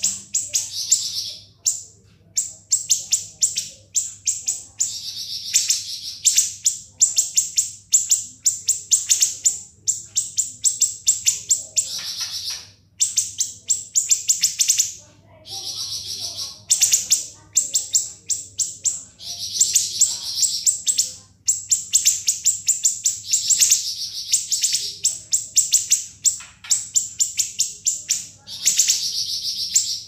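Siri-siri bird singing in long, fast trills of sharp, shrill high notes ('ngebren'). The phrases follow one another with only brief gaps, and a denser, buzzier note breaks in now and then.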